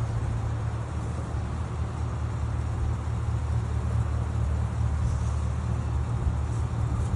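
Steady low rumble of an idling engine, even throughout with no revving.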